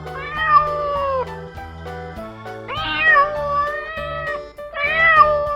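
A domestic cat meowing three times in long, drawn-out calls, the middle one the longest, over background music.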